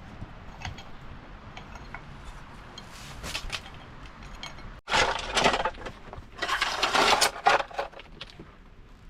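Bursts of rough scraping and crunching, faint at first, then a loud dense run in the second half.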